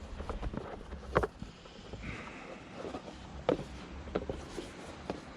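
Light clicks and knocks of hands handling car parts, a few seconds apart, the sharpest about a second in and about three and a half seconds in, over a low steady rumble.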